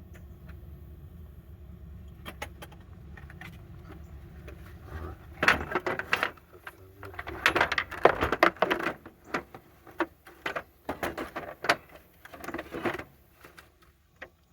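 Small metal tools clinking and clattering against each other in irregular bursts. It starts with a few scattered clicks and gets busy and loud from about five seconds in, then stops near the end.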